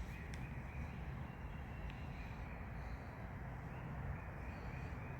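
Faint distant bird calls, a few thin high notes, over a steady low rumble.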